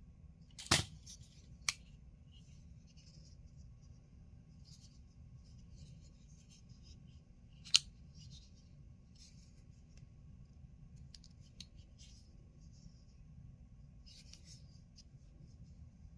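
Spyderco C81 folding knife being worked by hand: a sharp metallic snap about a second in, a lighter click just after, and another sharp snap near the middle, as the blade is flicked open and shut. Faint rustling and small clicks of the knife being handled between them.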